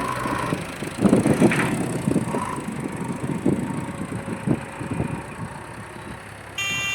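A JCB backhoe and a tractor straining in a tug-of-war: a low engine rumble with irregular knocks and clunks, the loudest about a second in. A short high-pitched tone sounds near the end.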